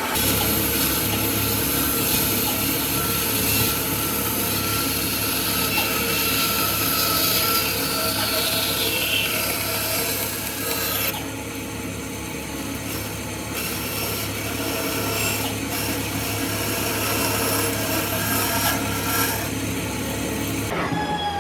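A power tool grinding against wood with a steady rasping sound. It eases a little about halfway through and stops shortly before the end.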